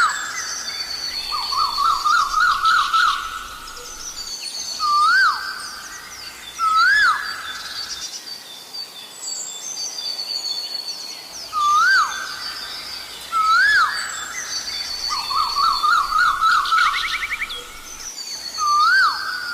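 Asian koel calling: a loud, rising "koho" note repeated every second or few, with a fast bubbling run of notes twice. Fainter, higher whistles of other birds sound behind it.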